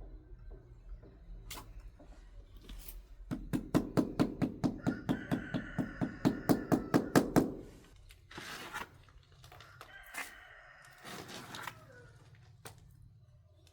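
A rapid run of knocks, about four a second for some four seconds, with a rooster crowing over the second half of it; shorter crows or calls follow a few seconds later.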